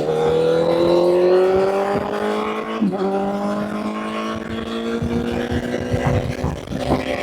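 Honda CBR1000's inline-four engine pulling under acceleration, its pitch climbing steadily; about three seconds in the pitch drops suddenly at a gear change, then climbs again.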